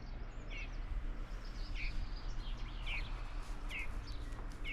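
A small bird calling: a short, high chirp repeated about once a second, over steady outdoor background noise.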